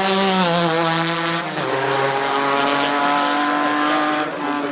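Nissan 370Z's 3.7-litre V6 engine pulling under load. Its pitch drops at about half a second and again at about a second and a half, as with upshifts, then rises steadily and eases near the end.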